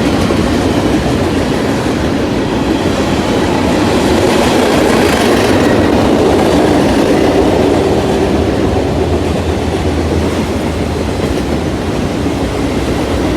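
Freight train rolling past at close range: a steady, loud rumble of steel wheels on the rails and cars, with no horn.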